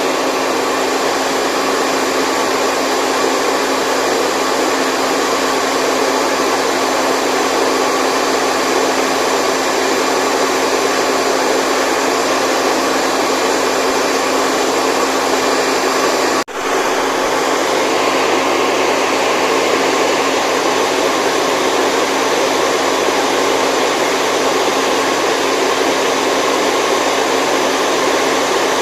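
Steady, loud white noise with a motor-like whoosh and a few steady hum tones, sounding like a hair dryer or fan running continuously. It drops out for an instant about sixteen seconds in and comes straight back.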